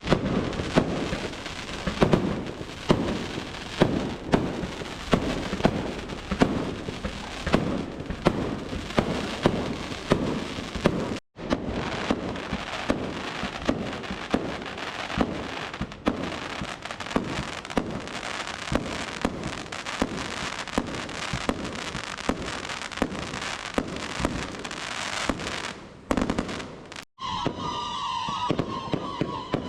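Fireworks going off in quick succession: sharp bangs about one to two a second over a dense crackle, the bangs thinning into a more even crackle in the second half. The sound breaks off abruptly twice.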